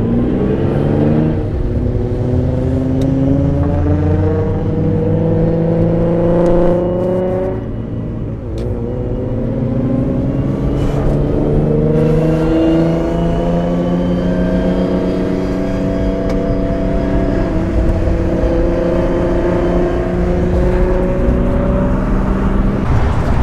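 Twin-turbocharged Nissan 350Z V6 accelerating hard, its pitch climbing steadily through one gear, dropping at a shift about eight seconds in, then climbing again through a long pull in the next gear.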